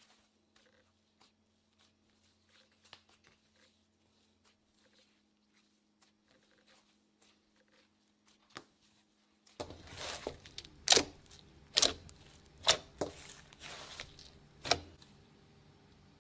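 Homemade slime being squeezed and pressed, with a run of sharp crackling pops and clicks from about ten seconds in. Before that, only faint small clicks over a low steady hum.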